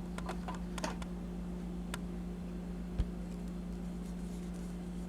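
Small clicks and taps of a toy model being handled, a cluster in the first second and one more about two seconds in, then a soft thump about three seconds in, over a steady low hum.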